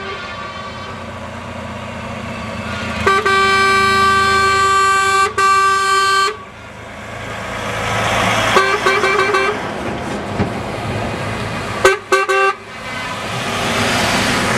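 Truck horns sounding in a passing truck convoy: one long held blast about three seconds in, a shorter blast, then a few quick toots, over the noise of trucks driving past.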